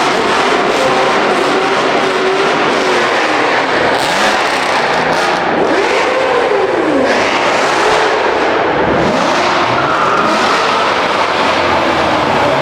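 Loud car engines revving hard, several at once, their pitch rising and falling over and over with no pause.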